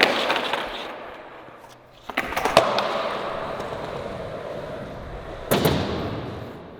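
A skateboard tail popping with a sharp clack about two seconds in, then its wheels rolling, then a loud slap of the board hitting the ground about five and a half seconds in during a flatground flip-trick attempt.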